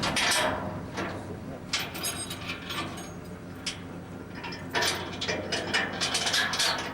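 Trailer coupler and hitch being worked onto a truck's hitch: a series of metallic clicks, clanks and ratcheting, with a brief high whine about two seconds in and a steady low hum underneath.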